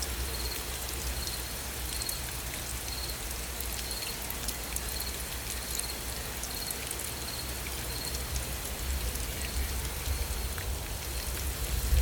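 Steady gentle rain, an even hiss with individual drops ticking, over a low steady rumble. A faint high chirp repeats about once a second.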